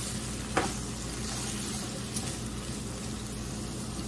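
Diced vegetables frying in oil in a kadhai, a steady sizzle, with one knock of the spatula against the pan about half a second in.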